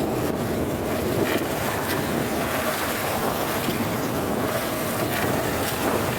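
Steady running noise of a motorized boat under way, with wind buffeting the microphone.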